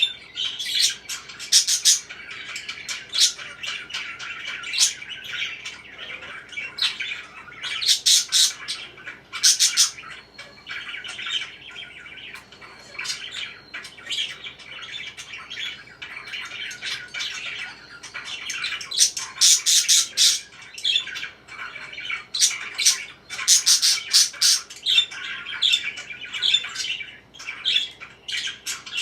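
Pet parakeets chirping and chattering without pause, broken by loud, sharp squawks that come in clusters several times.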